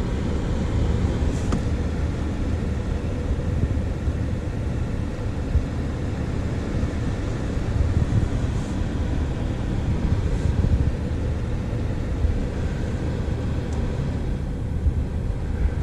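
Chevrolet Tahoe engine idling, a steady low rumble heard from inside the cabin, with a few faint ticks.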